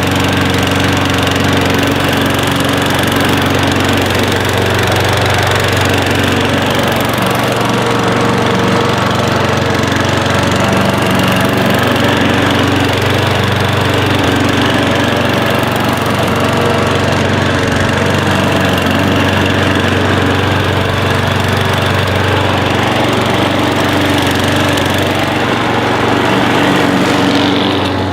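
A small engine running steadily at an even speed, its pitch holding almost constant throughout.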